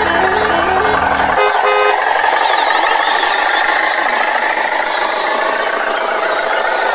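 A vehicle's engine running steadily and loudly. Over it, a short tune of stepping notes, like a musical horn or music, plays and stops about a second and a half in.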